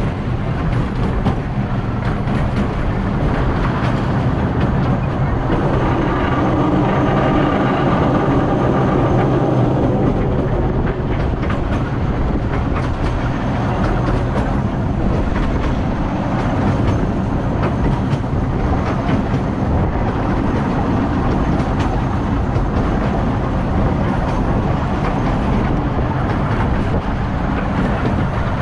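Narrow-gauge park railway train running at speed: a steady rolling rumble of the carriages' wheels on the rails with light clicking, heard from an open carriage. A pitched hum stands out for a few seconds about a quarter of the way through.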